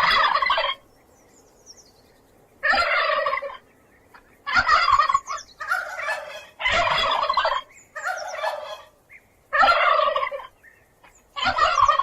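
Domestic turkey gobbling: a series of about eight rapid, warbling gobbles, each under a second long, with short pauses between them.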